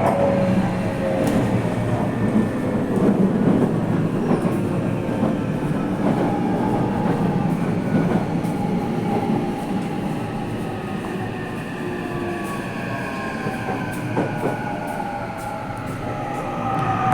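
Toei Mita Line subway car running, heard from inside the car: a steady rumble of wheels and motors. Over the second half the motor whine falls in pitch as the train brakes for the next station.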